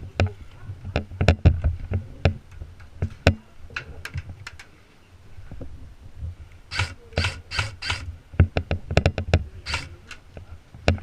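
Irregular sharp clicks and knocks with a low rumble of handling or wind underneath, and a run of four short rustling scrapes a little past halfway, then one more near the end.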